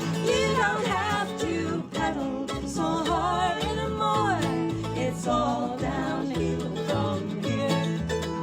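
Live acoustic folk band playing an instrumental passage of a song: guitar and other plucked strings, with a lead melody that slides between notes.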